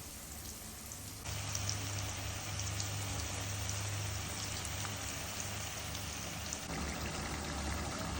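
Steady hiss of liquid pouring and splashing, starting abruptly about a second in.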